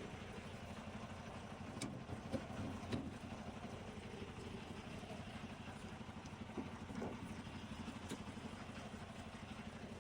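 Semi-truck's diesel engine running steadily with a low even hum, with a few light clicks and knocks over it.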